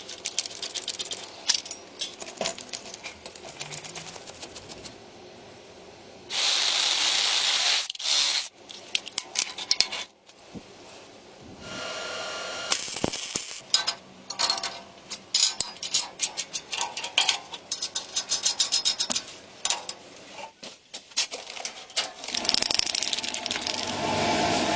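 Workshop handling noises: irregular clicks and metallic rattles of small parts and tools, broken twice by loud bursts of hiss, about a quarter of the way in and again about halfway.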